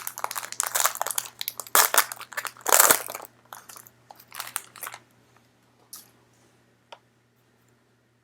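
Plastic trading-card pack wrapper crinkling as it is handled and opened, densest over the first three seconds, then scattered crackles and a couple of single clicks before it goes quiet.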